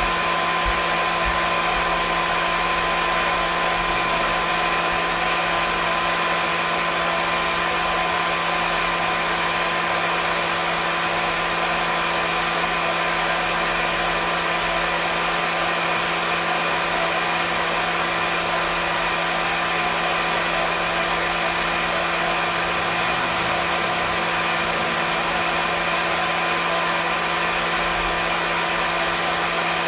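Hair dryer running steadily: an even rush of blown air with a constant motor hum, unchanging throughout.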